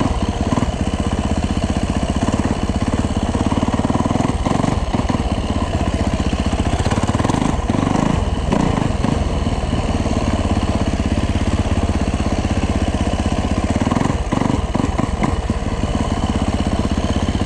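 2009 Yamaha YZ450F four-stroke single-cylinder dirt bike engine running under load while being ridden at low speed, its revs rising and falling.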